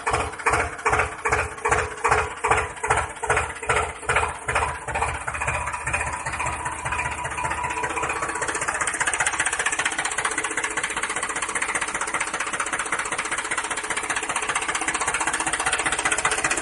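Tractor engine sound, starting as slow, even thumps about two or three a second that speed up over a few seconds into a steady run.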